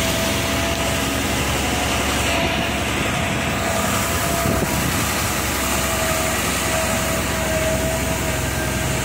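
Lorry engine running steadily under way, with a steady whining tone above the engine noise.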